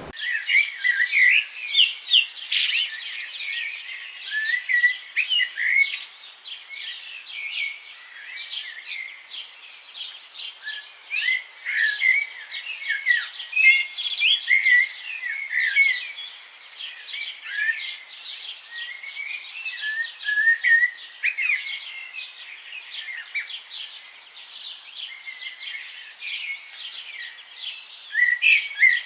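Many birds chirping and twittering at once: a dense chorus of short, quick, high calls that overlap without a break.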